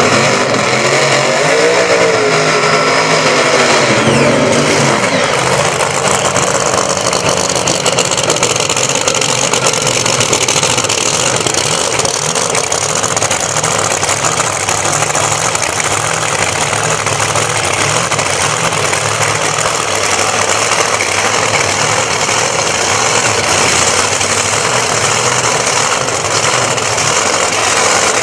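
Drag race car engines idling loudly at the start line, revved up and down in the first few seconds, then running steadily.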